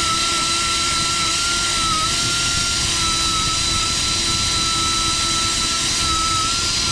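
Electric grinder running steadily on a fresh weld in metal, a constant high whine over a harsh grinding hiss; the pitch dips briefly twice as the disc is pressed harder into the work.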